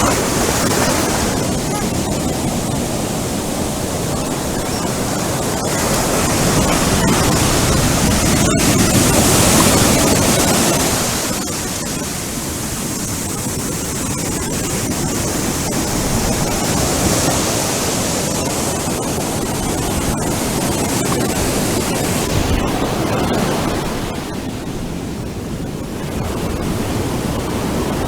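Ocean surf breaking and washing up a beach, a steady rush that swells and eases in long surges every several seconds.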